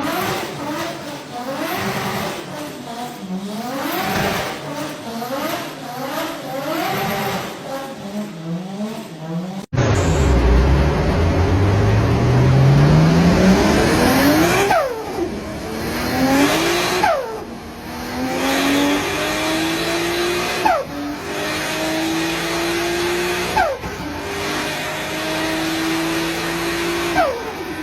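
A car engine revved up and down over and over. Then a car accelerates hard up through the gears, its pitch climbing in each gear, with a short sharp burst at each of about five gear changes.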